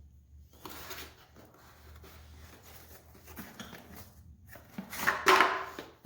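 Hands handling and opening packaging: irregular rustling and scraping that starts about half a second in and is loudest near the end.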